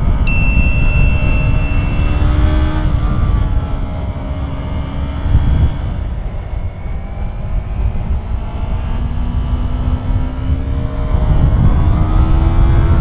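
Yamaha R3's parallel-twin engine under way, its pitch climbing, falling back and climbing again as the throttle opens and closes, under heavy wind rumble on the microphone.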